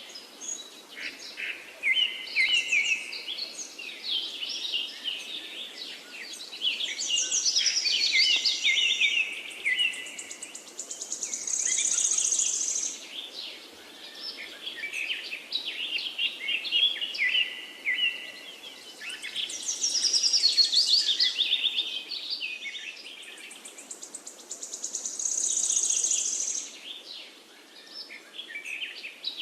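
Several wild songbirds singing at once, their varied chirps and trills overlapping, the chorus swelling and easing every few seconds over a steady background hiss.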